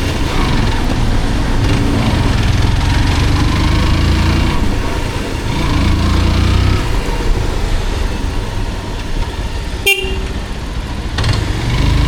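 Motorcycle riding in traffic: engine running with a steady low rumble and road and wind noise, with a short horn beep about ten seconds in.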